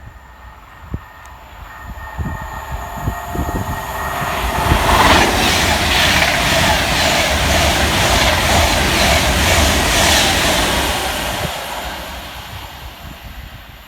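Avanti West Coast Class 390 Pendolino electric train passing through the station without stopping. A few high steady tones and a rising rush come first as it approaches. Then a loud roar with a repeated clatter of wheels over the rail joints for about five seconds, which fades away near the end.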